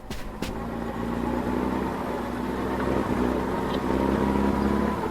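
Motor vehicle engine running steadily at idle: a low, even drone with a faint steady whine above it. It builds up over the first second, after two short knocks right at the start.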